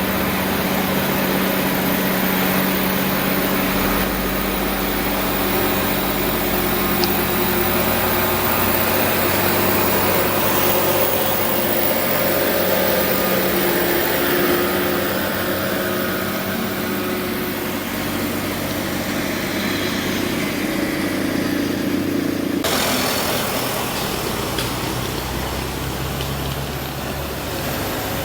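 Heavy diesel truck engines running under load on a steep uphill climb, their tone shifting slowly. The sound changes abruptly about three-quarters of the way through.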